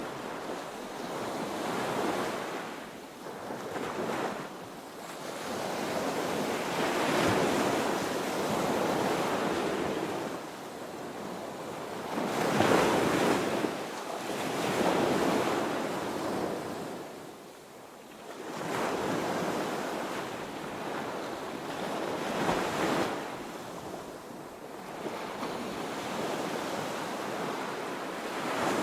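Ocean waves breaking on a beach, the surf swelling and ebbing every few seconds, with the loudest break about halfway through. Some wind on the microphone.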